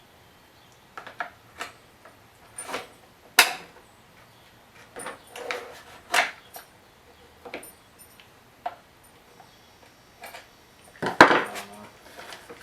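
Irregular clicks, knocks and clatters of hand tools and parts being handled while prying at a Homelite chainsaw's stubborn cover, with a louder cluster of knocks near the end. The engine is not running.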